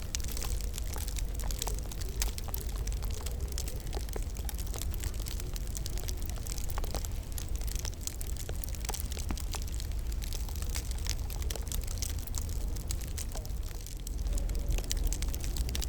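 Wood fire crackling in a fireplace: frequent, irregular small pops and snaps over a steady low rumble.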